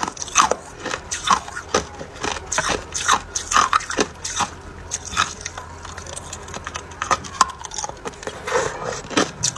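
Close-up crunching of hard ice being bitten and chewed, a rapid run of sharp cracks a few times a second.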